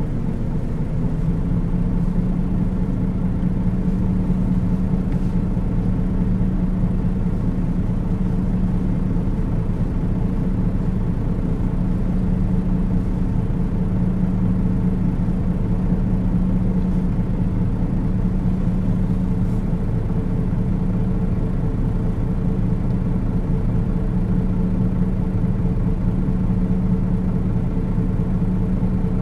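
A Nissan Diesel KL-UA452KAN city bus driving, with its diesel engine running at a steady pitch. The engine tone grows stronger about a second in and then holds level.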